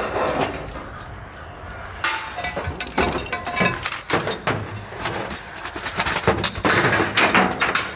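Scrap metal car parts being thrown onto a pile at a tip, landing with repeated metal clanks and clinks, some ringing briefly.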